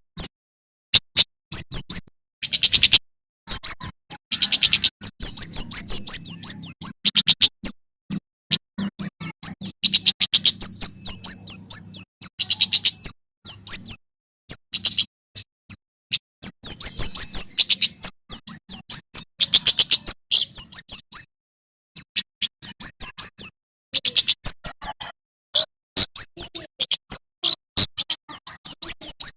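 Male prenjak keres (kemade) singing loudly in fast runs of sharp, high chirps, series after series with short pauses between.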